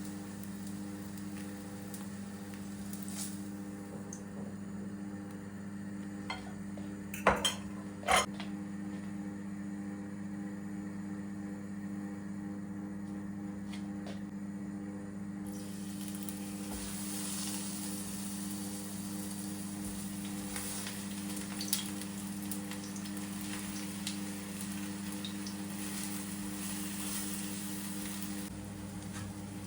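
Food sizzling in a hot pan over a steady low hum, with two sharp clinks of a utensil on cookware a few seconds before the sizzling rises for the second half.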